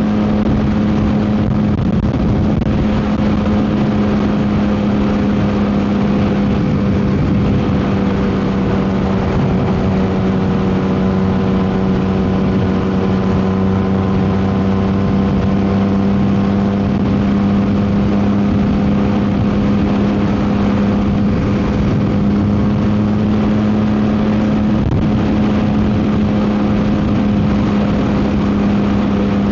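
Yamaha MT-09 SP's three-cylinder engine through a Dominator GP exhaust, holding a steady cruising speed with an even, constant drone. Heavy wind noise on the microphone runs underneath.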